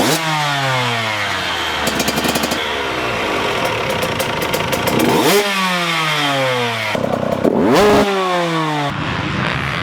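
Dirt bike engines on a motocross track, their pitch falling again and again with sharp upward sweeps about five and seven and a half seconds in, with some clattering about two seconds in.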